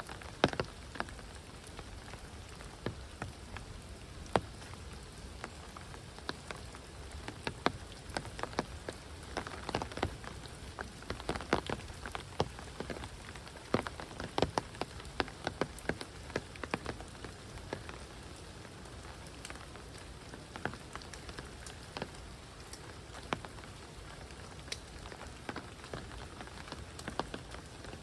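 Heavy rain falling steadily, with many sharp, irregular drops landing close by, thickest in the middle stretch.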